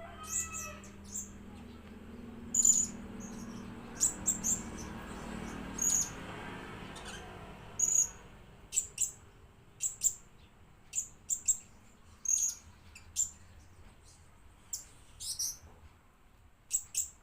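Blue-crowned hanging parrot (serindit) giving short, very high, sharp chirps, singly or in quick pairs, about one every second.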